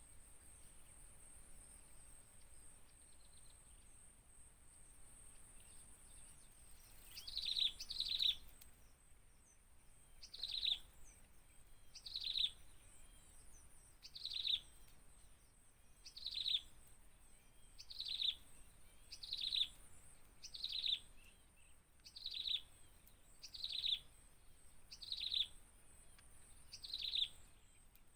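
A bird repeats a short, high chirp that falls in pitch. The calls begin about seven seconds in, the first two come close together, and the rest follow roughly every one and a half seconds. A faint, steady, high-pitched whine sits underneath.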